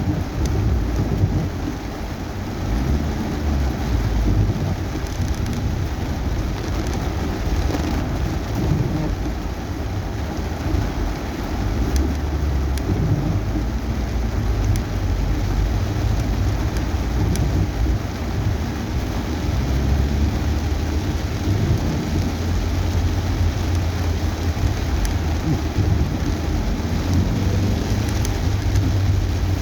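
Heavy tropical rain pelting a moving car's roof and windshield, heard from inside the cabin as a steady hiss with scattered drop ticks over a continuous low rumble of road and engine.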